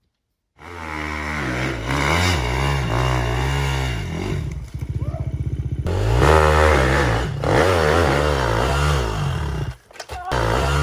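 Dirt bike engine revving up and down under changing throttle. Around the middle it drops to a low, pulsing putter for about a second, then revs high again, and it cuts out briefly near the end before picking up.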